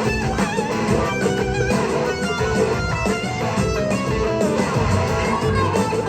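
Live rock band playing an instrumental passage: an electric guitar leads with wavering, gliding notes over bass and drums.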